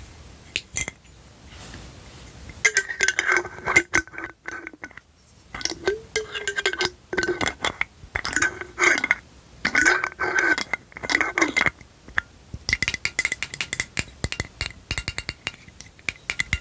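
A small hard object, glass-like, clinking and rattling in the hands with a ringing tone, then tapped quickly with fingertips about two-thirds of the way in, each tap ringing.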